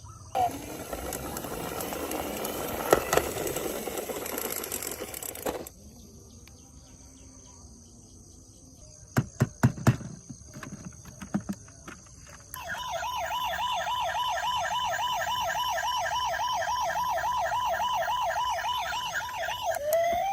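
Electronic siren of a toy emergency vehicle sounding a fast, even warble for the last several seconds. Before it come a few seconds of rattling, hissing noise and then a handful of sharp clicks.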